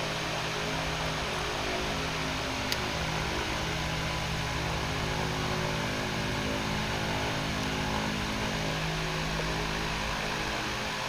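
Steady background hum and hiss with several fixed low tones, with one sharp click about two and a half seconds in.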